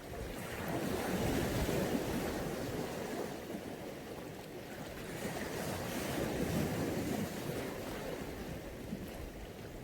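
Mediterranean sea waves washing onto the shore, swelling about a second in and again midway, with wind buffeting the microphone.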